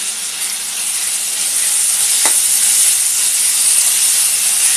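Chopped onions and tomatoes sizzling in hot oil in an aluminium pot as ginger-garlic paste is stirred in with a metal spoon, the frying growing louder over the first couple of seconds. The spoon knocks once against the pot a little over two seconds in.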